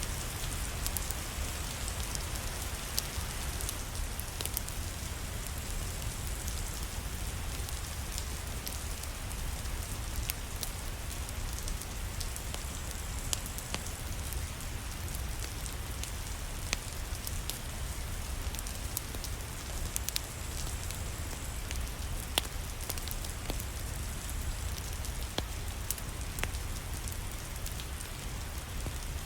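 Steady rain mixed with a fireplace, with scattered sharp crackling pops over an even hiss and a low rumble.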